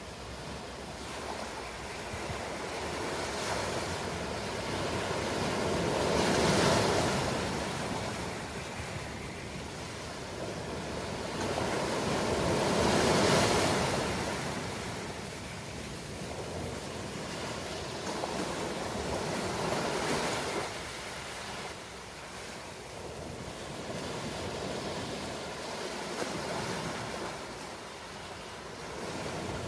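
Ocean surf: waves breaking and washing in over a steady hiss, with the loudest swells about 7 and 13 seconds in and a smaller one around 20 seconds.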